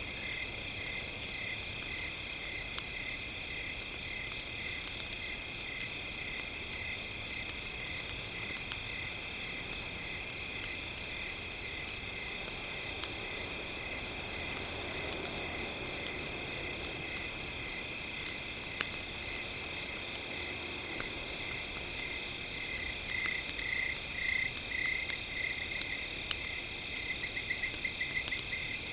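Campfire crackling in a few sharp pops over a steady high-pitched trilling chorus with a pulsed call repeating throughout, louder for a couple of seconds near the end.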